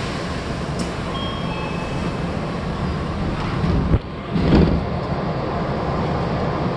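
Steady noise of an Odakyu commuter train standing at a station platform, its equipment running. A click about four seconds in, then a brief louder rush of noise.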